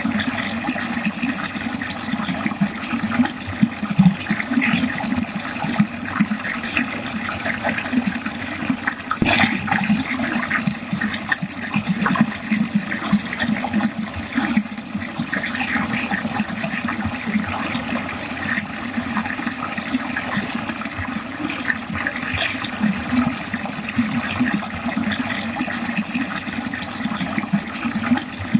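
Water flowing steadily down a drain, gurgling and splashing unevenly throughout, with one sharper splash about nine seconds in.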